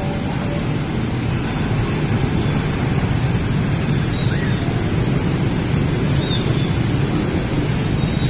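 Train moving through the station with a steady low rumble.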